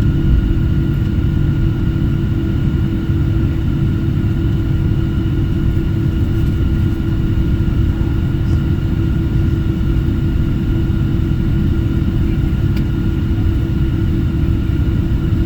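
Airplane engines and cabin heard from inside while taxiing: a steady low rumble with a constant hum and fainter high, even whines.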